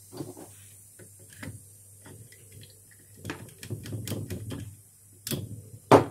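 Irregular light clicks and knocks of metal tools and lead pieces being handled, with a sharp snap just before the end, over a steady low hum.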